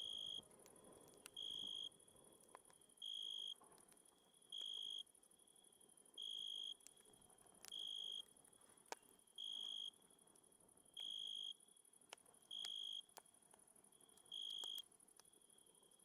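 A cricket chirping in a steady, even rhythm: one high chirp of about half a second roughly every second and a half, over a steady high insect hiss. Occasional faint sharp pops of a campfire crackling.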